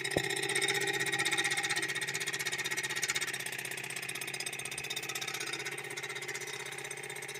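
Waterpik water flosser pump running with a fast, steady pulsing buzz.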